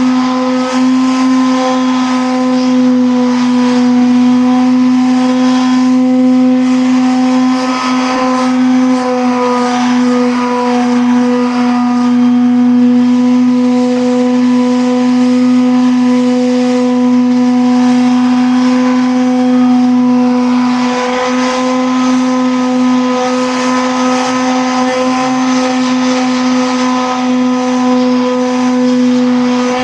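A motor running at a steady speed, giving a constant hum that never changes pitch, with a slight change in tone about two-thirds of the way through.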